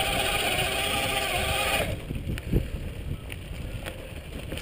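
Electric mountain bike motor whining steadily under power, then cutting off suddenly about two seconds in. Tyres rolling on a dirt trail with a few sharp knocks follow.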